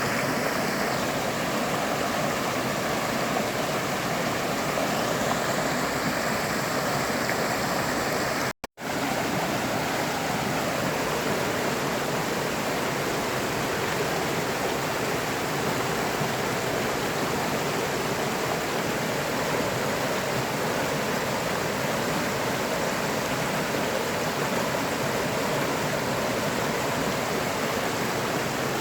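River water flowing steadily in an even rush. About eight and a half seconds in, the sound cuts out for a split second and then resumes.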